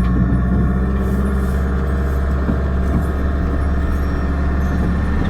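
Campervan on the move, heard from inside the cab: a steady low drone of engine and road noise.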